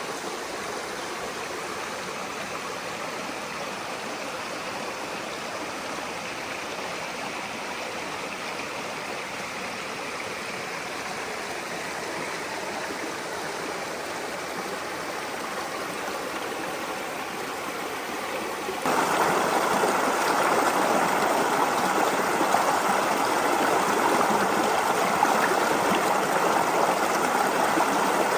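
A brook flowing steadily. About two-thirds of the way through, it abruptly gets louder and brighter and stays that way.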